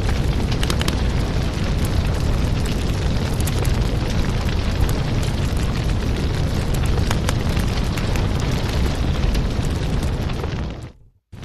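Wood fire crackling in a fireplace, with a steady low rumble and frequent small pops and snaps. It cuts out for a moment near the end, then carries on.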